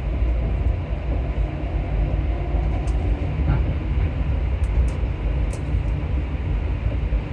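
Rubber-tyred MP14 metro train running through a tunnel, heard from inside: a steady low rumble of running gear and tunnel noise, with a few faint ticks in the middle.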